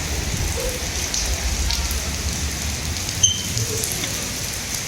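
Windstorm weather: a steady rushing hiss of rain and wind with a low rumble. A single sharp click comes a little over three seconds in.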